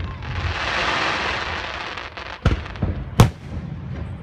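Fireworks going off: a dense hiss for about the first two seconds, then sharp bangs about two and a half seconds in and again just after three seconds, the later one the loudest.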